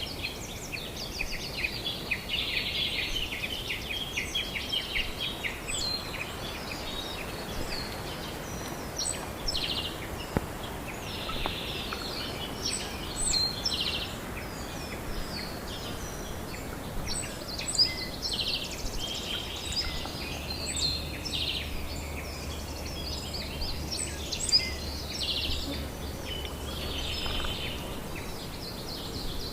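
Wild backyard birds chirping and calling, many short calls and phrases overlapping over a steady outdoor background noise. A faint low hum joins in around two-thirds of the way through.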